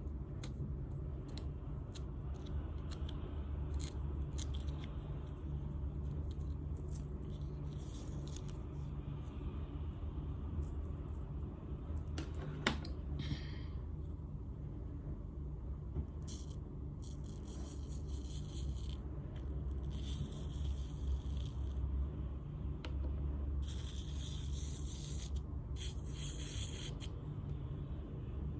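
Close-up handwork on a sand-art picture: scraping, rubbing and small clicks, with several longer scratchy, hissing stretches, over a steady low hum.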